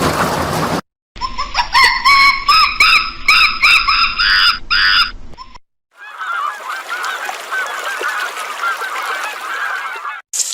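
A goose honking in a run of about eight loud calls. After a brief gap, a flock of geese calls over one another in a dense, continuous chatter.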